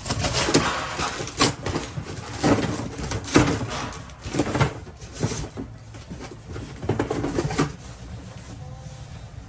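Cardboard box being pulled open and its contents handled: irregular scraping, rustling and knocks of cardboard and packaging, dying down about a second and a half before the end.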